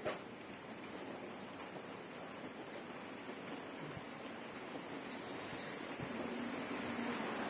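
Steady rain falling, an even hiss that grows slowly louder toward the end, with one sharp tick at the very start.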